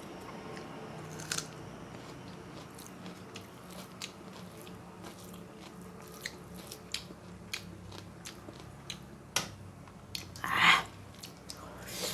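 A person eating close to the microphone, mukbang style: scattered wet chewing clicks and small crunches, with one louder crunchy bite near the end.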